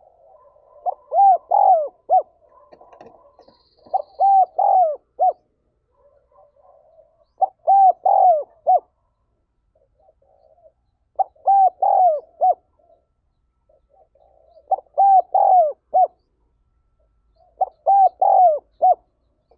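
Spotted dove cooing its repeated three- to four-note song, six phrases about every three and a half seconds, with faint soft coos in between.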